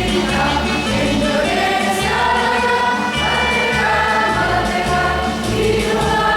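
Mixed choir singing a song in held, sustained notes over a steady low accompaniment.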